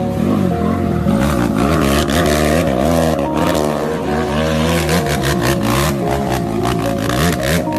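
Motorcycle engines revving, the pitch rising and falling again and again.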